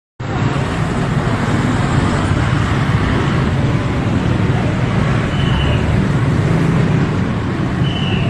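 Steady street traffic noise with a deep rumble of passing vehicles. Two brief high tones come about five and eight seconds in.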